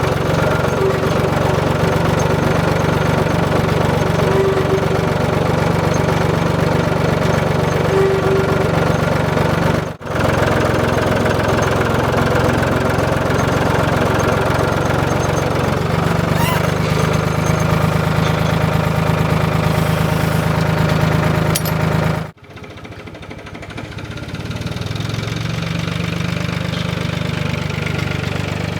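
Ford 3000 tractor engine running steadily while working. The sound breaks off sharply twice, about ten seconds in and again about two-thirds of the way through; after the second break it comes back quieter and slowly grows louder.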